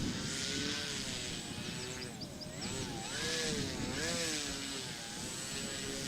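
Radio-controlled model aeroplane's motor and propeller running, its pitch rising and falling several times.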